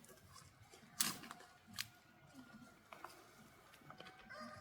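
Quiet with a few sharp clicks or snaps: the loudest about a second in and a smaller one a little before two seconds in.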